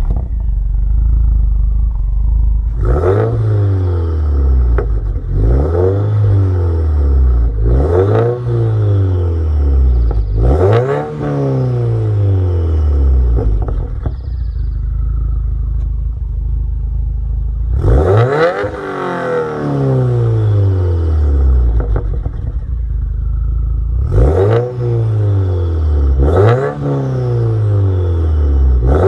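A 2015–2017 Subaru WRX's turbocharged flat-four engine is being free-revved through an Invidia Q300 turbo-back exhaust with a catless J-pipe. Each blip rises sharply and falls back to idle over about two seconds, with revs roughly every two and a half seconds. Midway it settles at idle for several seconds before the blips start again.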